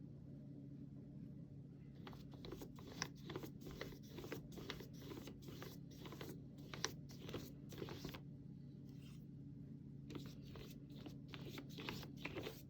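Flat brush dragging acrylic paint across canvas in a run of quick scratchy strokes, a short pause, then another run of strokes, over a steady low hum.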